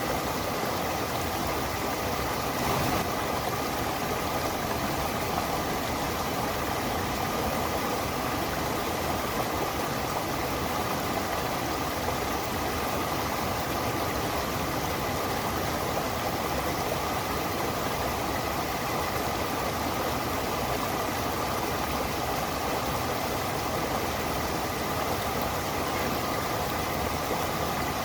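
Stream water rushing and splashing steadily, an even unbroken sound of flowing water.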